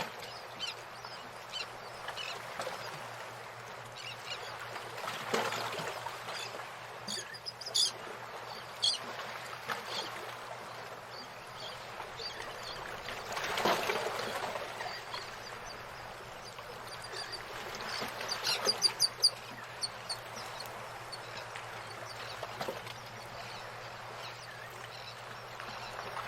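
Birds chirping in short high bursts over a steady rushing hiss like flowing water, with the chirps busiest twice, early and again about two-thirds of the way through.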